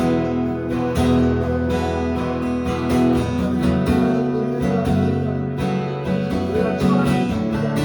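Background music: strummed acoustic guitar chords over held notes.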